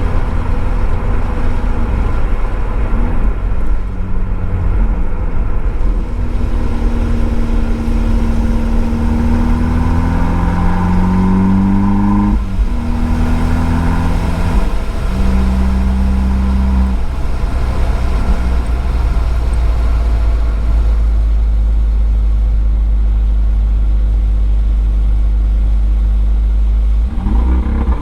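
Abarth 595 Esseesse's turbocharged four-cylinder through its Akrapovič exhaust, heard from a microphone in the boot, accelerating hard on a race track: the engine note climbs, drops sharply at an upshift about twelve seconds in, climbs again, holds a steady note for about ten seconds, then drops at another shift near the end and climbs once more.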